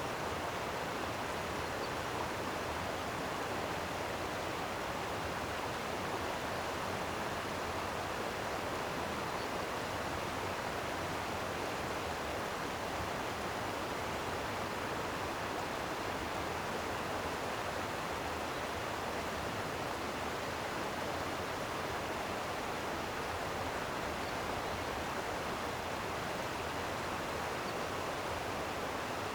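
Flowing stream water, a steady, unbroken rushing.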